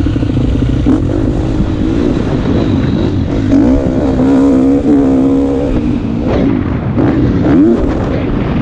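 Motocross bike engine revving, its pitch rising and falling with the throttle, with a quick rev up shortly before the end.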